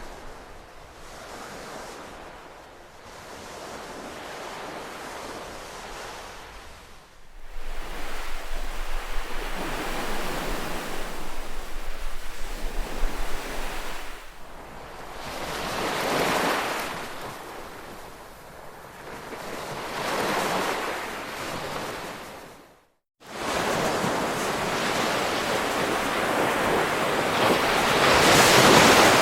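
Ocean surf: waves swelling and washing in every few seconds. The loop has sudden jumps in level where it is spliced, and it cuts out briefly about three quarters of the way through.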